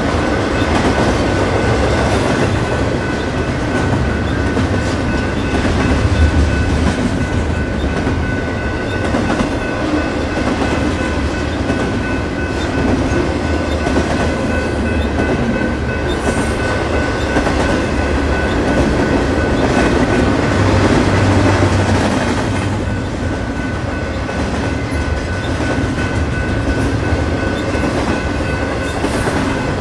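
Train rolling past with a steady rumble, its wheels clicking over the rail joints and a thin, steady high whine running through it.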